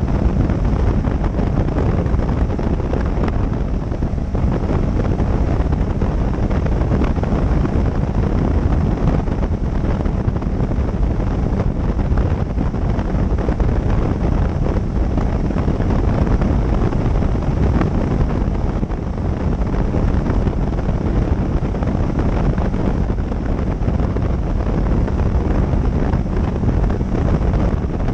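Steady wind rush buffeting the microphone, with motorcycle engine and road noise underneath, while riding at speed.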